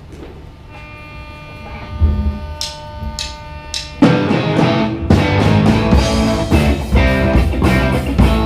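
Live rock band starting a funk song. Held tones ring for a moment, then a low hit and three sharp cymbal strikes lead in. About four seconds in, the full band of electric guitar, bass and drum kit comes in loudly with a steady beat.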